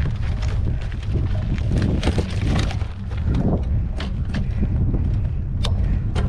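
Wind buffeting the microphone during a mountain bike ride on a rocky dirt trail, with scattered clicks and rattles from the bike and tyres on the ground.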